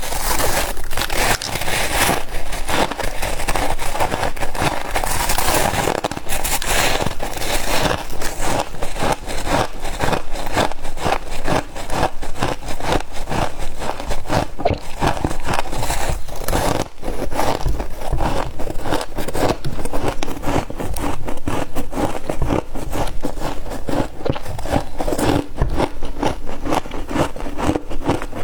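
A person chewing crispy humidifier ice close to the microphone: a continuous run of rapid, crisp crunches and crackles, several a second.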